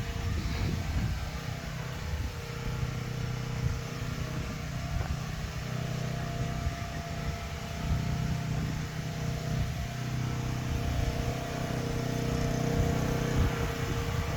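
A motor vehicle engine running steadily at idle: a low, even hum.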